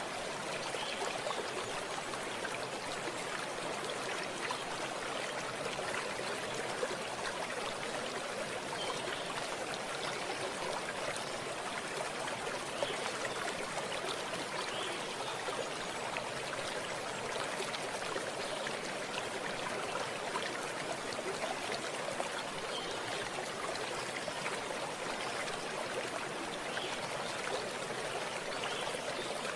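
Stream water running over stones, a steady rushing and trickling with small splashes dotted through it.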